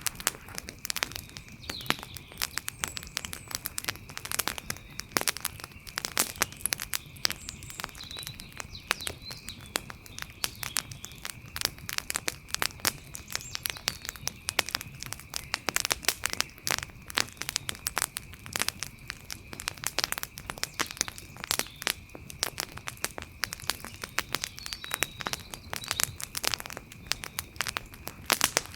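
Wood fire crackling, with many irregular sharp snaps and pops, over a soft low rumble of burning. A steady thin high-pitched tone runs underneath.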